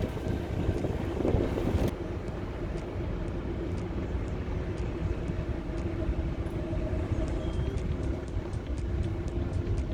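Car engine and road noise heard from inside the car as it drives slowly, a steady low rumble. A louder rush of wind-like noise fills the first two seconds.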